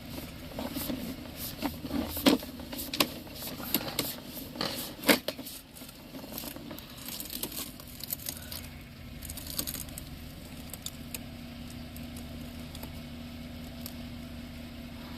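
Irregular clicks, knocks and rattles of handled equipment over a steady low hum. The clicks thin out about halfway through, leaving the hum.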